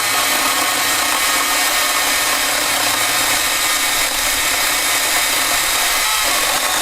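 STIHL GTA 40 battery-powered pruning saw running steadily, its chain cutting through wood.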